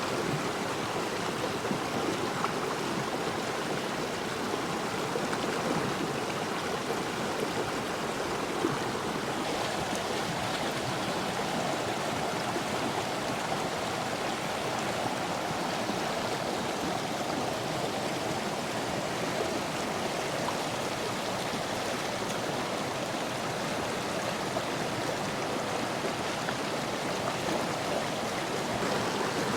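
A mountain stream rushing steadily: the continuous sound of running water.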